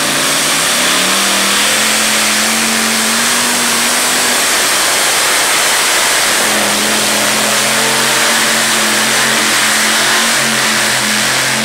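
Modified pulling tractor with three 540 cubic inch Dodge V8 engines running at full power under load, a loud, steady engine howl with a slight shift in pitch a few seconds in.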